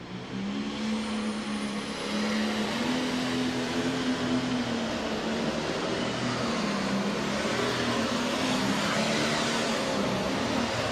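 Pro stock pulling tractor's turbocharged diesel engine running at full throttle under load as it pulls the sled, its note holding steady with slight wavering in pitch.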